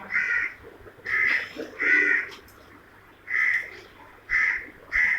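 Parrots squawking: a series of short, harsh calls, about one a second.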